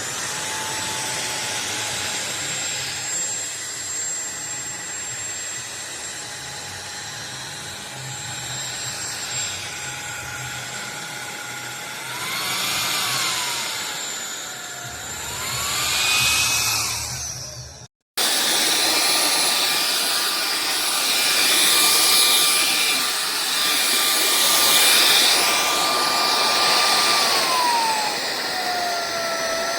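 SunSare X7A cordless stick vacuum's motor running with a steady high whine whose pitch dips and recovers twice midway. It cuts off abruptly about eighteen seconds in, then starts again at a higher pitch that slides down near the end.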